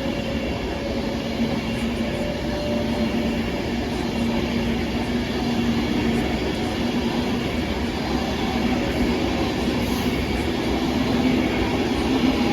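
Avanti West Coast Class 390 Pendolino electric train running through the station without stopping: a steady rumble of wheels on rail with a continuous low hum, swelling slightly near the end.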